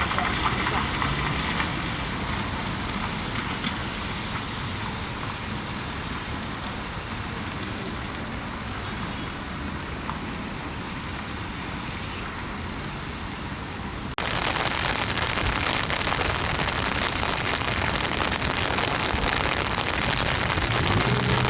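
Steady noise of road traffic, which changes abruptly about fourteen seconds in. A low hum starts near the end.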